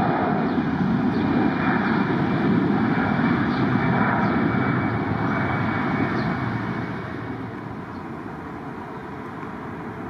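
Jet airliner's engines passing, a loud steady rush that fades off about seven seconds in.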